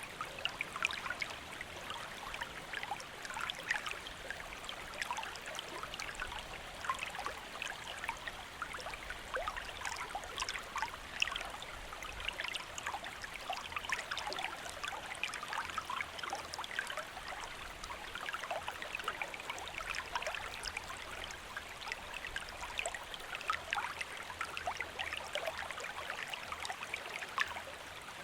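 A shallow stream running steadily, full of small splashes and trickles over stones.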